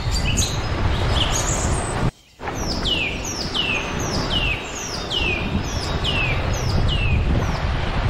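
Songbird calls over a steady rushing background: a few short chirps, then a run of about eight descending whistled notes, one every two-thirds of a second. The whole sound cuts out for a moment about two seconds in.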